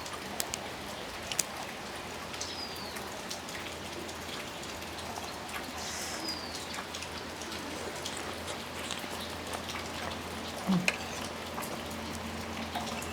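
Steady rain falling, with scattered raindrops tapping close by. A bird chirps three times, each call short and falling in pitch, and a brief knock comes near the end.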